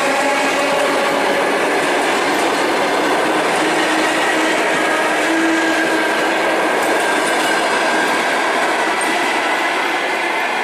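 Electric commuter train running at speed: a steady loud rail and running noise with faint clickety-clack and a few steady whining tones over it.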